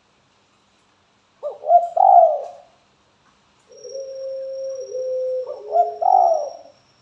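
Spotted dove cooing: a short two-part coo about a second and a half in, then a longer held coo running into another run of coos near the end. A faint, thin, steady high tone runs under the second half.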